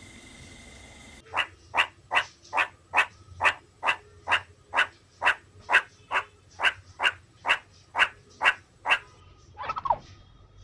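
An animal giving a rapid, evenly spaced series of about eighteen short calls, a little over two a second, followed near the end by one call that falls in pitch.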